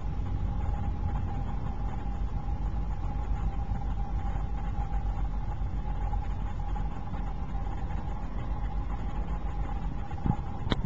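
Electric narrow-gauge train running along the track, heard from the side of a moving car: a steady rumble with a constant whine on top, and a couple of sharp knocks near the end.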